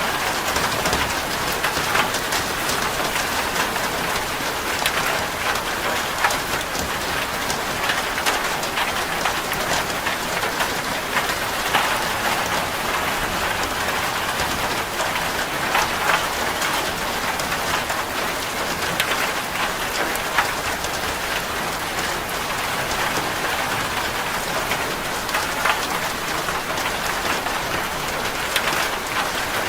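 Steady rain falling on a corrugated zinc (sheet-metal) roof: a dense even patter with many sharp individual drop ticks on the metal.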